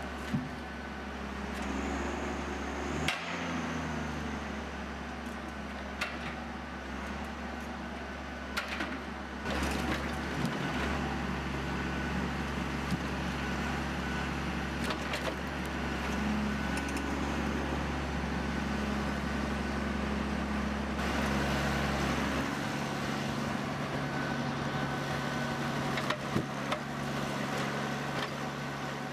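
A machine's engine running steadily, with scattered knocks and clacks; the engine note shifts a couple of times.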